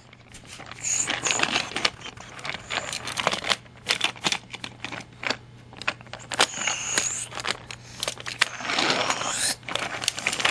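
Toy trains and plastic pieces clicking and clattering as they are handled and moved around, a steady run of small, irregular knocks.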